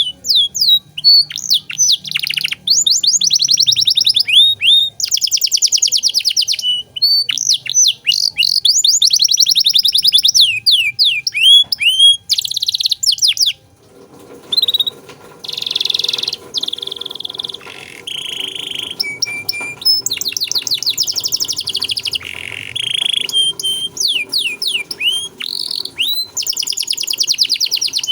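Domestic canary singing continuously: fast trills of repeated downward-sweeping notes and buzzy rolls, with a brief pause about halfway before the song picks up again.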